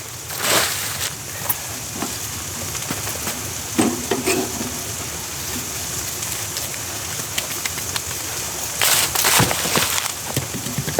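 Food sizzling in a pan as a meal cooks, a steady hiss with a few clicks and scrapes of a utensil stirring it, and louder rustling bursts about nine seconds in.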